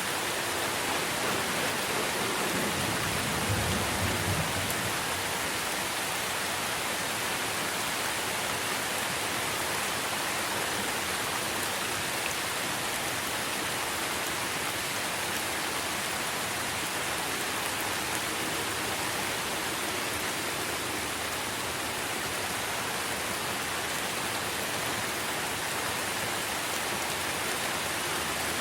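Steady rain falling on tree foliage, an even dense hiss. A brief low rumble swells and fades about three seconds in.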